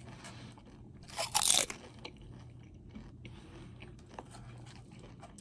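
A person chewing a mouthful of cinnamon kettle corn eaten with milk as cereal, with one louder crunching bite about a second in and faint mouth clicks after it.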